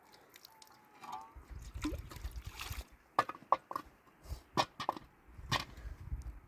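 Water sloshing and trickling, with a run of sharp clicks and knocks, several close together about three seconds in.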